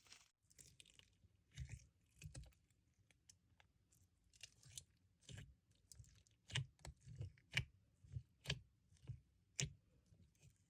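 Slime being squeezed and poked by hand, giving an irregular string of small sharp clicks and crackly pops.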